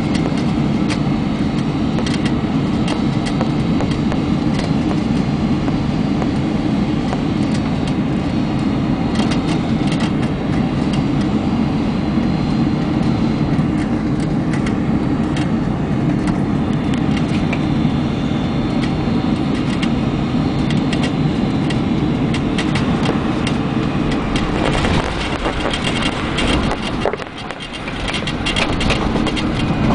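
Cabin noise inside the upper deck of a Boeing 747-400 during landing: a steady low rumble of engines and airflow with frequent rattles and knocks from the cabin fittings. Near the end the sound changes and briefly drops before the rumble returns.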